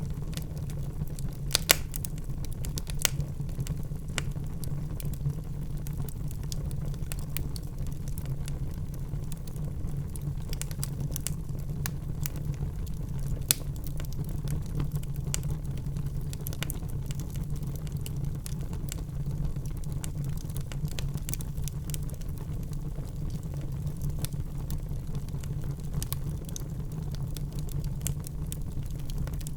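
Wood fire in a fireplace crackling, with irregular sharp pops and snaps over a steady low rumble of flames. The loudest pops come about two seconds in and again about halfway through.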